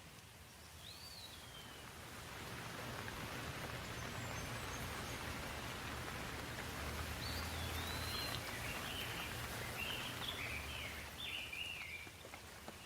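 Steady rain falling, growing heavier about two seconds in and easing off near the end. A bird calls over it, with a single falling whistle about a second in and a run of quick chirps in the second half.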